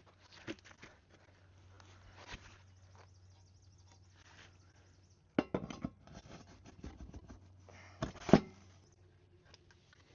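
A few light clicks and clatters, with two louder knocks about five and eight seconds in, over a faint steady hum.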